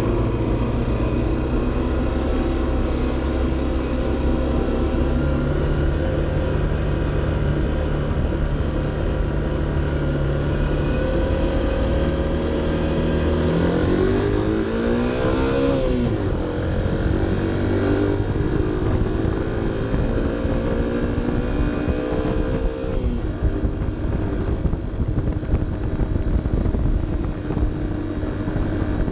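Honda CB 125 F's single-cylinder four-stroke engine running steadily under load, heard from onboard. About halfway the revs climb quickly and then drop with a gear change. They climb slowly again and drop once more about three quarters of the way in.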